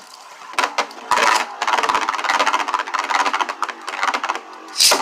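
Two Beyblade spinning tops whirring and rattling against each other in a stadium. There are sharper clashing hits about half a second and a second in, and a louder burst of hits near the end.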